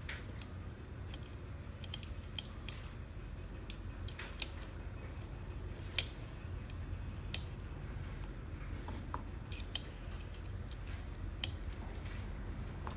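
Small steel and brass mortise lock parts clicking and tapping as they are handled and fitted into the lock case during reassembly. The sharp clicks are irregular, the loudest about halfway through, over a steady low hum.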